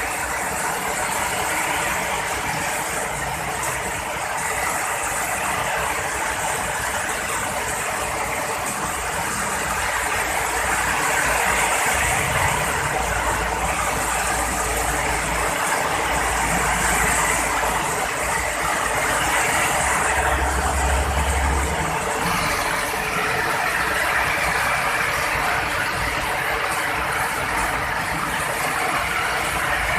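Heavy rain pouring steadily, a dense even hiss, with low thunder rumbles about twelve seconds in and again about twenty seconds in.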